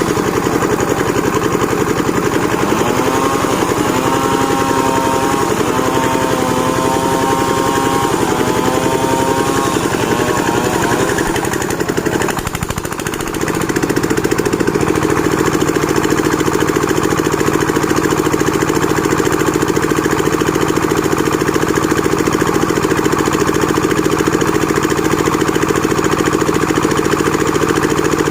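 Engine of a plank-making sawmill machine running continuously. Its pitch wavers up and down for several seconds early on, the level dips briefly near the middle, and then it settles into steady running.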